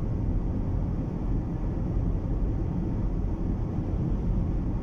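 Steady low rumble of a car cabin at cruising speed, with tyre and road noise mixed with strong wind buffeting the car's body.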